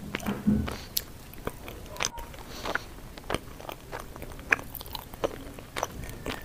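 A person biting and chewing fresh sweet potato leaves and stems, with irregular sharp crunching clicks.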